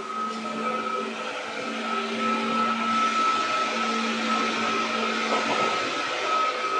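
205 series electric train running, a steady low hum and a higher steady whine over the rushing noise of wheels on rail, which grows louder about two to three seconds in.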